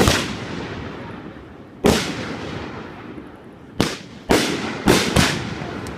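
Fireworks bursting: about six sharp bangs, each trailing off in a fading rumble. One comes at the very start, one about two seconds in, and four come close together in the last two seconds.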